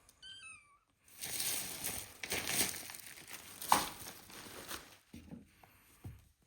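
A kitten mews once, briefly, the pitch wavering downward; then a few seconds of crinkling and rustling, like plastic or paper being handled, with one sharp click partway through and two soft thumps near the end.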